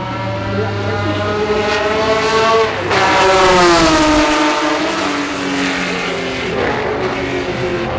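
A 1960s Ferrari V12 race car at full speed passes close by about three seconds in. Its engine note climbs as it approaches, jumps in loudness, then falls in pitch as it goes away, and another engine keeps running under it afterwards.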